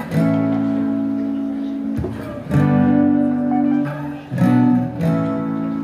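Acoustic guitar strumming the introductory chords of a song live, the chords changing every second or two before the singing comes in.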